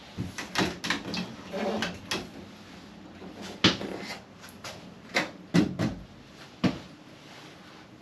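Scattered knocks and clicks in a small, enclosed room, the loudest about three and a half seconds in.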